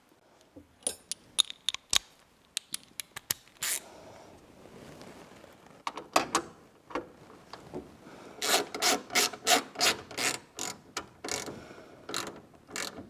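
Mechanical clicking and rattling: a string of sharp separate clicks, then a faster run of about four clicks a second a little past the middle.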